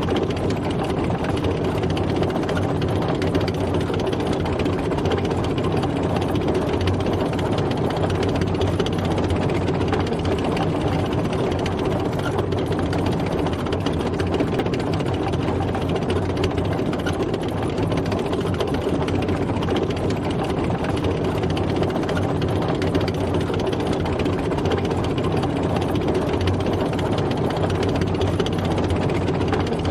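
A tank driving, its heavy engine running at a steady pace with an even, unbroken drone.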